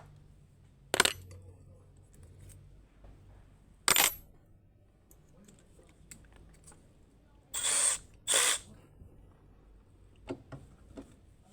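Maintenance tool work on an aircraft bracket. Sharp metallic clinks come about a second in and again about four seconds in, then two short bursts of tool noise, each about half a second, close together past the middle.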